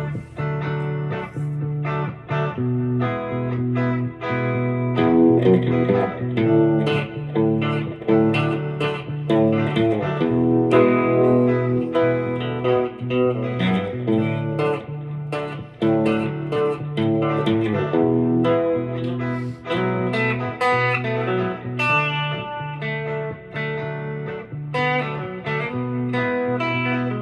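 Guitar music: picked notes in a running melody over low, held bass notes.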